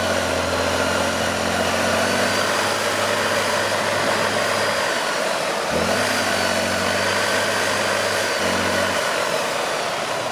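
Truck engine working hard, with a low engine note that holds for about five seconds, drops away and comes back for about three more. A faint high whine runs above it.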